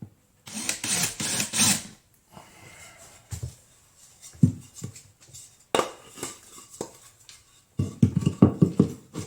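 A screw being driven through a drywall patch into a wood backing board: two stretches of rapid rattling, the first about half a second in and the second near the end, with scattered knocks between.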